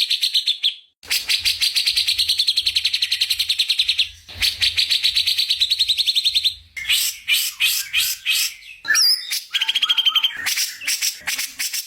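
Murai songbird singing: three long, very rapid trills of repeated notes, then, from about seven seconds in, a varied run of whistled and chirping notes.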